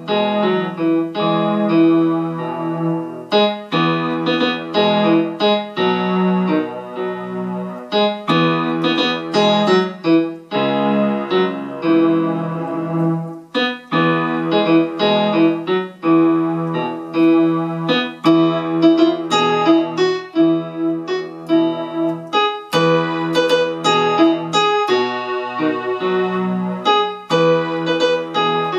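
Electronic keyboard on a piano pad sound playing a hymn verse in E major: a lower-register melody over left-hand bass notes and sustained chords, phrase after phrase with short breaks between them.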